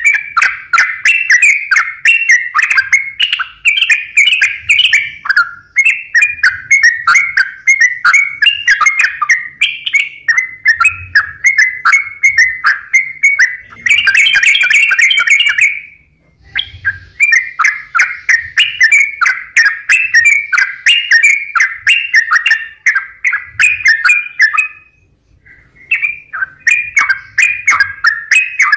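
Yellow-vented bulbul (trucukan) in full song: fast, continuous chattering and whistled phrases. The song breaks off briefly about halfway through and again about 25 seconds in.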